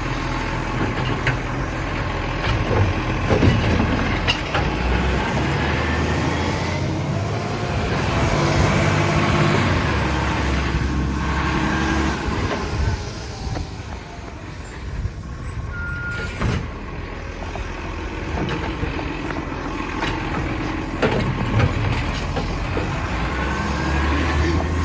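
Garbage truck's engine running, its pitch rising and falling as it revs, with scattered knocks and clatter and one short beep about two-thirds of the way through.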